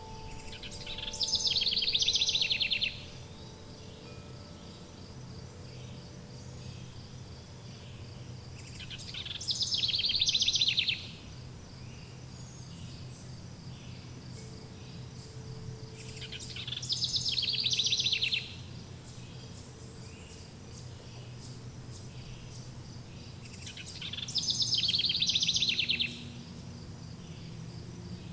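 A songbird repeating the same rapid trilled phrase four times, about every seven to eight seconds; each phrase swells and then cuts off. Between the phrases a steady high insect chirring carries on, and faint wind chime tones fade out in the first few seconds.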